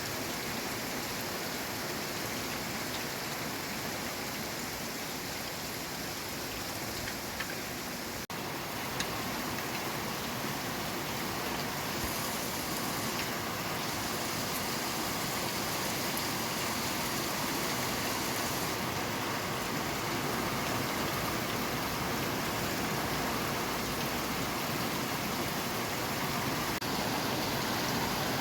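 Steady rain falling, an even dense hiss of drops. It cuts out for an instant about eight seconds in.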